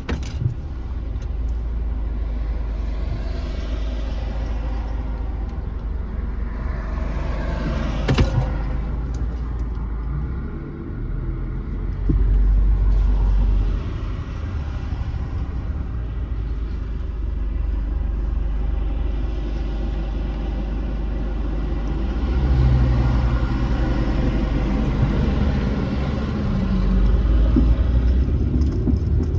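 A car driving on a wet road: a steady low engine and road rumble with tyre hiss that swells and fades. The engine note rises as it speeds up later on, and there is one sharp click about 8 seconds in.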